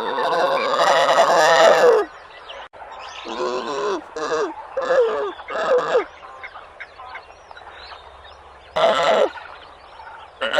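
Domestic fowl calling. A dense run of overlapping calls is followed by about four short calls that drop in pitch, then one more short call near the end.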